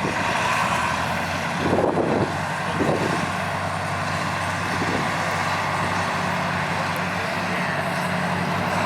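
Pulling truck's diesel engine running steadily, with two short louder bursts about two and three seconds in.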